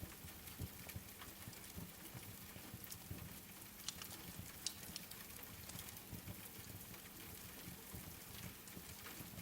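Steady patter of rain mixed with the crackle of a wood fire, with a few sharper pops about four to five seconds in.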